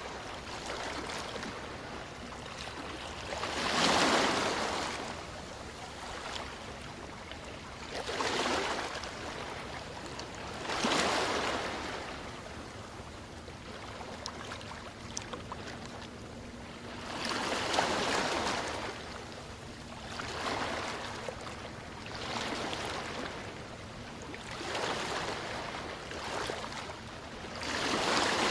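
Ocean surf: waves washing in one after another, a swell of hiss every few seconds over a steady background wash.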